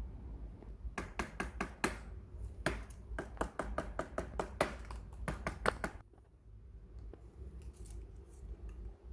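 A quick run of sharp clicks, about four a second, starting about a second in and stopping about six seconds in, over a low steady hum.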